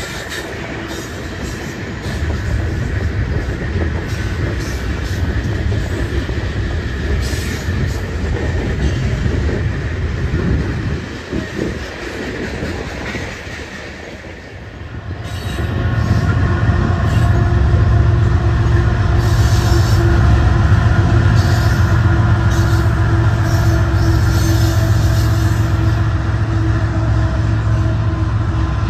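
Coal train rolling past: steel wheels on rail with flange squeal and clicking over rail joints. About halfway through, the diesel engine of a Canadian Pacific locomotive placed mid-train comes in and grows louder, adding a steady low hum.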